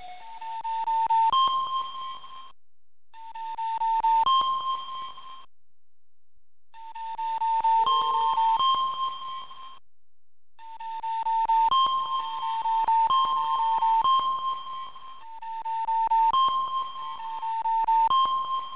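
Electronic sound signals from a live seismic monitor: bursts of beeps that step from a lower note up to a higher one, each burst lasting two to four seconds with short gaps between, and crackling clicks under the tones.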